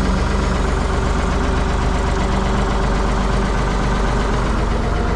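Ford 555 backhoe loader's engine running steadily at a constant speed.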